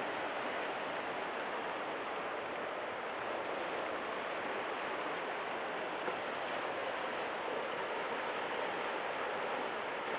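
Rapids of a rain-swollen river rushing steadily, a dense even hiss of fast water with no pauses.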